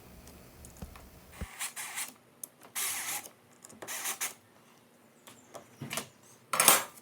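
Drill with a self-centering bit boring screw holes through a plywood insert plate, in about four short bursts.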